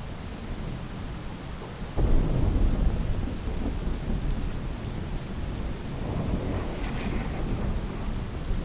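Steady heavy rain with thunder: a low rumble breaks in suddenly about two seconds in and rolls on, swelling again near the end.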